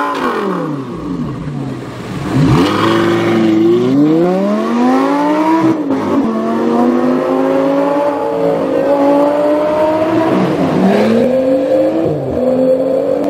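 Audi R8 Spyder sports car engine: the revs fall for the first two seconds, then it revs up twice as it pulls away. A steady engine note follows, with a brief dip and rise in pitch near the end.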